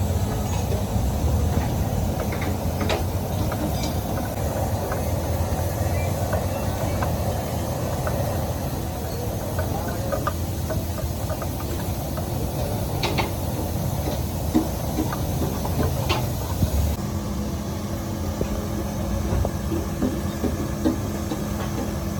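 Steady low rumble of busy street noise with a few sharp clicks; about three-quarters of the way through the sound changes and a steady low hum joins it.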